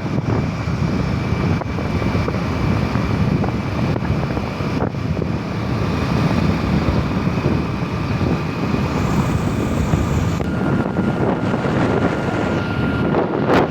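Steady low rumble with wind noise on the microphone, and faint steady whines above it that change pitch about ten seconds in.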